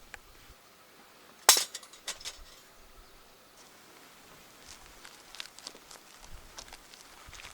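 A sharp metallic clink about a second and a half in, followed by a few lighter clicks and faint ticks, as the small steel parts of a folding fire pit are handled and knocked together.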